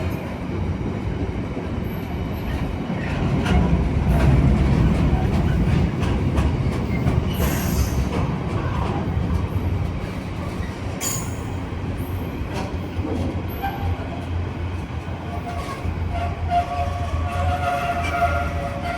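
A train running through the station: a steady low rumble with scattered sharp clicks, swelling about four seconds in. Near the end a high wavering tone joins in.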